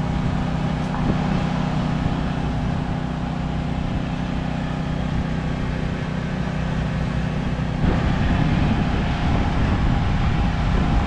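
Generator running steadily at close range, a constant engine hum, with wind rumbling on the microphone.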